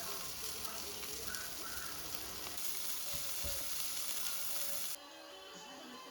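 A steady, even hiss with a few faint knocks in it, which cuts off suddenly about five seconds in and leaves faint music.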